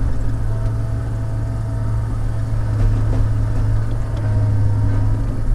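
Diesel engine of a log loader (shovel) running steadily with a constant low hum.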